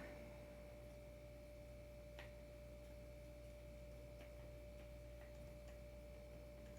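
Near silence: room tone with a faint steady high hum and a few faint scattered ticks, the loudest about two seconds in.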